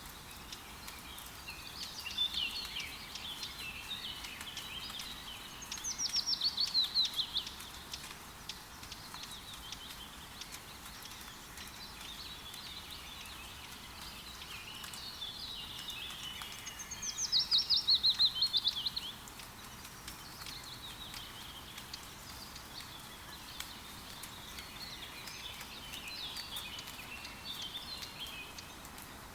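Forest birds singing over a steady, gentle rain hiss with light pattering. Scattered chirps throughout, and twice a loud, rapid trill that falls in pitch, about six seconds in and again about seventeen seconds in.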